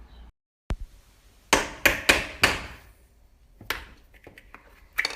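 A series of sharp knocks: four in quick succession about a second and a half in, then two more spaced out, one near the middle and one near the end.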